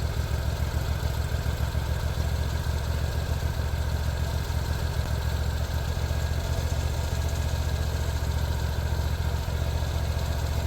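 Sawmill engine idling steadily.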